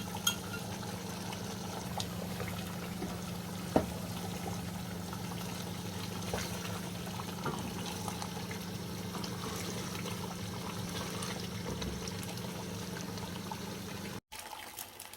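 Steady cooking noise from a pot of chicken curry on the stove: an even hiss over a constant low hum, with a few light clicks, cutting off abruptly near the end.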